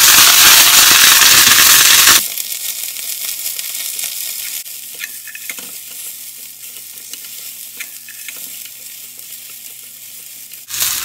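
Onion wedges sizzling in hot oil in a frying pan, stirred with long wooden cooking chopsticks that click against the pan a few times. The sizzle is loud for about two seconds, then drops suddenly to a quieter, thinner sizzle that fades slowly and rises again near the end.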